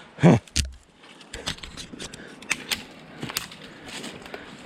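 Brush and twigs crackling and snapping in irregular clicks with footsteps, while pushing through a dense thicket. A brief loud vocal sound and a low thump come just at the start.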